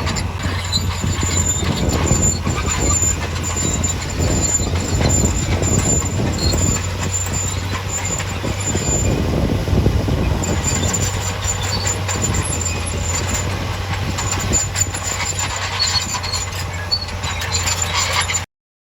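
Heavy earthmoving machine running, a steady low engine drone under continual metallic clanking and an on-and-off high squeal. The sound cuts off suddenly near the end.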